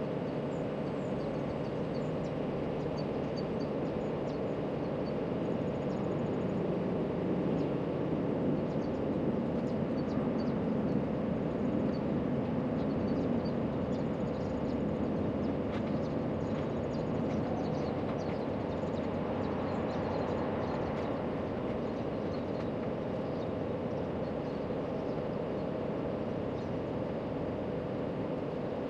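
Steady low outdoor background rumble, with faint short high chirps scattered through it.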